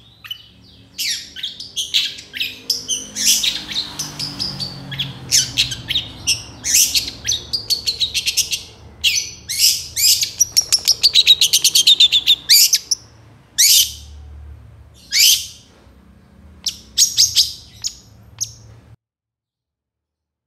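Long-tailed shrike (cendet) singing a fast, varied song of sharp high notes and chattering trills, with a run of quick repeated notes in the middle. It cuts off suddenly about a second and a half before the end.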